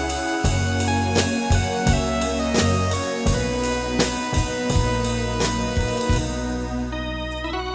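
Live band playing the instrumental intro of a romantic Latin song: a drum kit keeps a steady beat of about three hits a second under bass and held keyboard chords. Near the end the drums drop out, leaving the keyboard chords.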